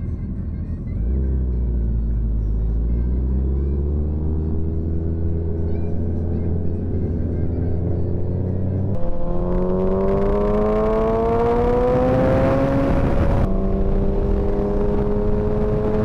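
Motorcycle engine accelerating hard. It rises in pitch through one gear, is shifted up about 9 seconds in and climbs again, then is shifted up once more near the end and settles to a steady cruise, with wind noise during the second pull.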